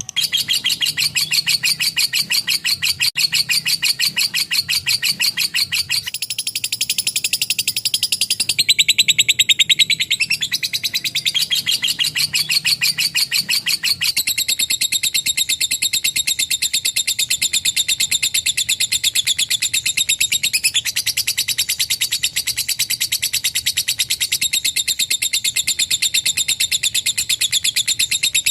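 Lovebird singing its long 'ngekek' chatter: a very fast, high-pitched run of repeated notes that goes on without a break.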